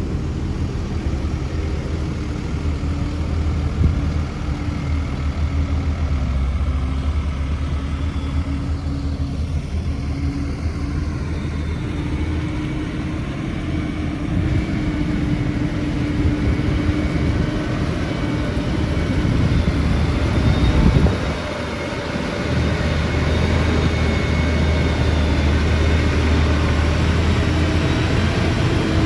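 Heavy diesel engine of construction machinery running steadily, with a deep rumble and an engine tone that rises and falls a little with load. About twenty seconds in it gets briefly louder, then the low rumble drops for a moment before it steadies again.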